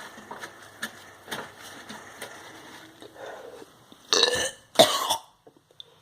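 A man retching twice in quick succession about four seconds in, two loud heaves of someone throwing up. Faint clicks and rustles come before them.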